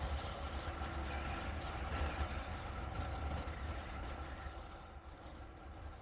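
Steady low rumble of a moving vehicle, easing off a little about five seconds in.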